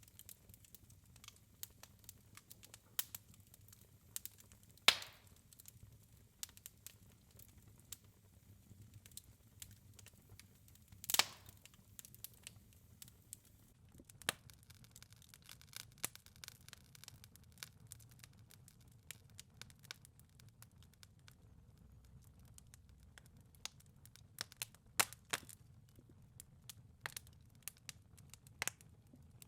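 Fireplace fire crackling, with scattered small clicks and two louder pops, over a faint low rumble.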